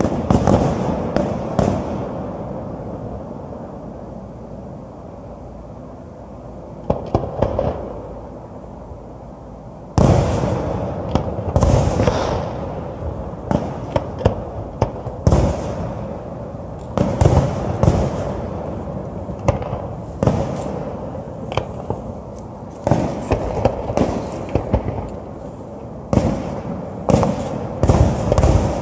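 Aerial fireworks shells bursting, each sharp bang trailing off in a rolling echo. After a lull of a few seconds the bursts pick up with a loud bang about ten seconds in, then come in quick succession.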